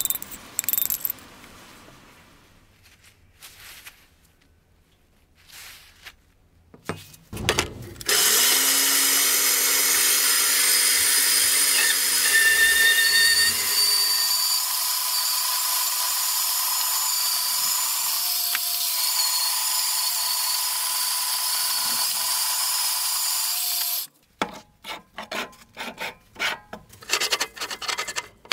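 A power tool machining a cast wheel. It starts about eight seconds in, runs steadily with a few held whining tones, and cuts off suddenly near the end. Scattered clicks and knocks of handling come before and after it.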